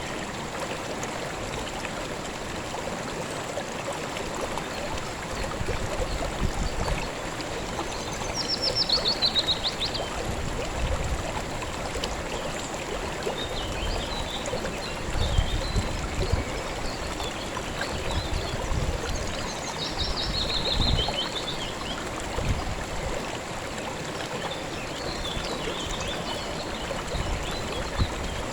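River water flowing steadily. A bird sings a short falling trill of quick notes twice, about 8 seconds in and again about 20 seconds in, with fainter chirps between.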